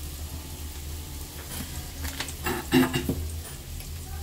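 Cubed potatoes frying gently in oil in a metal kadai, a low sizzle, with a few short knocks and rustles a little past halfway.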